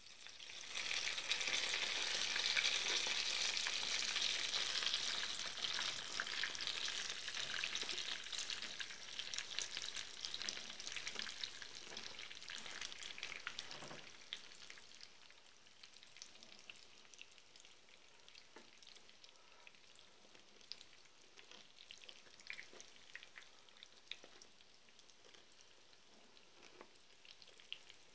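Breaded chicken cutlets sizzling in hot oil in a frying pan as they are turned over with a spatula. The sizzle jumps up about a second in and is strongest for the next several seconds. By about fourteen seconds it has died down to a quieter crackle with scattered pops.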